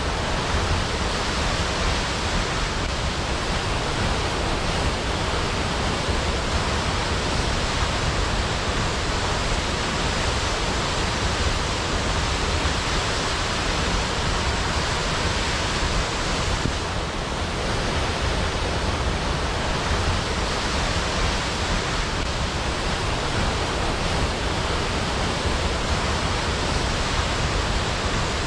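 Waterfall falling in a steady, even rush of white noise.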